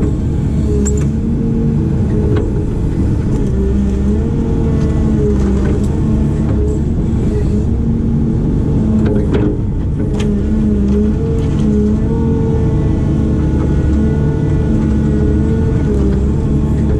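Heavy diesel engine of a working excavator or backhoe, running steadily, its pitch dipping and recovering slightly as the load changes, with a few short knocks.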